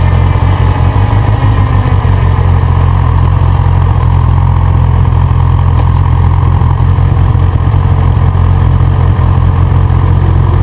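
Motorcycle engine running steadily, a deep, even drone.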